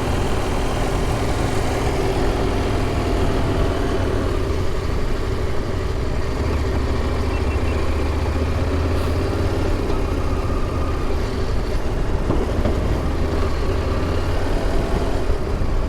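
Motorcycle engine running steadily under the rider, a continuous low rumble with road and wind noise.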